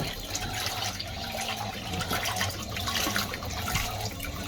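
Water running and splashing in the tub of a Fisher & Paykel MW511 washing machine, steady throughout, with a low hum underneath.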